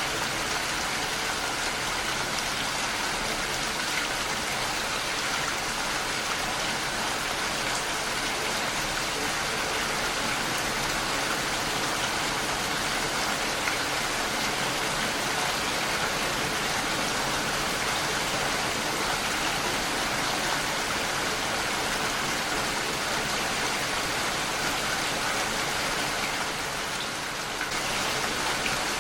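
Heavy rain falling steadily on a window, with the patter of drops, dipping slightly in level for a moment near the end.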